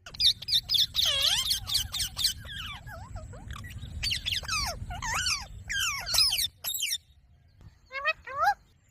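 Green parrot chattering and squawking in quick, high-pitched, sliding calls, with a short pause about two-thirds of the way through and a few more calls near the end.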